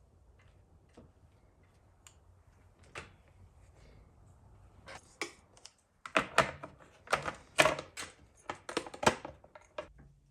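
Art and craft supplies being handled on a work table: a few light taps, then from about six seconds a quick run of loud clacks and rattles.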